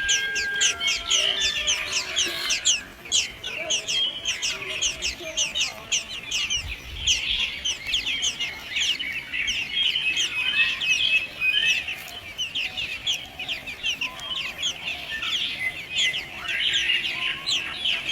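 Nestling birds begging: a continuous chorus of short, high chirps, several a second.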